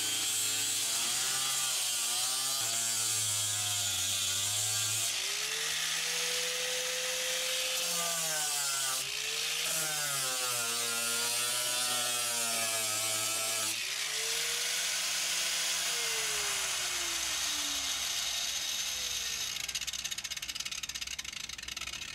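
Angle grinder grinding fiberglass, its motor pitch dipping and rising as the disc is pressed in and eased off, over a steady high hiss from the abrasive. Near the end the motor's pitch glides down as it winds down.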